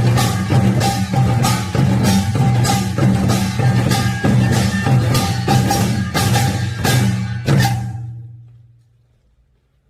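Korean pungmul percussion playing a fast, driving rhythm of repeated strikes with ringing metallic tones. About seven and a half seconds in it stops on a final stroke that rings out and fades over a second or so.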